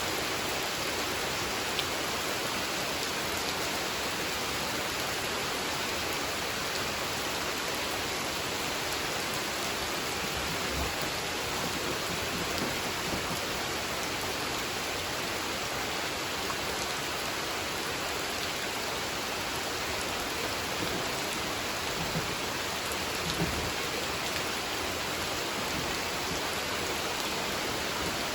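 Steady rain falling on a pond, an even hiss with a few faint individual drops.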